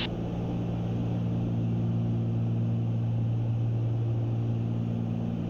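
Cessna 310 twin piston engines and propellers droning steadily in cruise, heard inside the cabin as an even low hum.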